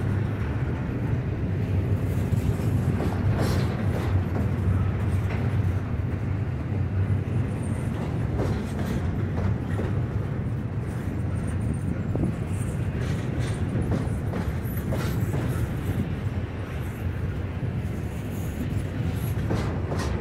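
Double-stack intermodal freight train's container well cars rolling past: a steady low rumble of steel wheels on rail, with scattered clicks and clanks.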